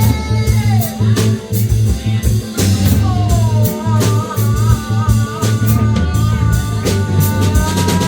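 Instrumental band jam: guitar, bass and drum kit, with a lead line that slides down twice and then holds a wavering, vibrato note over a steady bass groove and drum beats.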